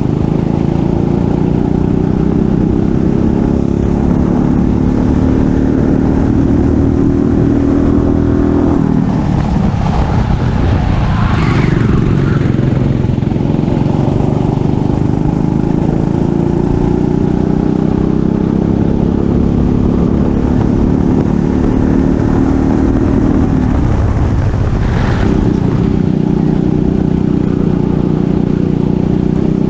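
Racing kart engine held near full throttle, its note climbing slowly as speed builds. Twice the engine is eased off and its pitch drops, then it picks up and climbs again.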